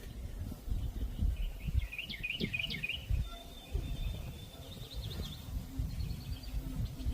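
Songbirds calling: a quick burst of chirps about two seconds in, then a thin high whistled note and a short trill, over a low irregular rumble.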